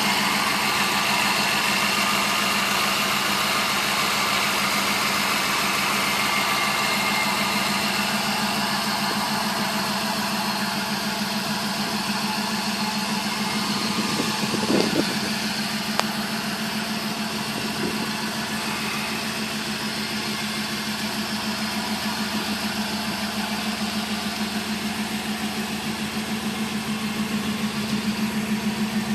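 The 5.8-litre V8 of a 1993 Ford F-150 Lightning, fitted with an aftermarket T70 turbo kit, idling steadily. A short knock sounds about halfway through, with a click a second later.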